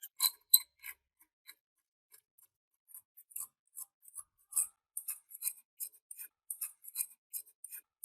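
Light, sharp clicks and ticks of small metal parts being handled, sparse at first and coming several a second over the last three seconds.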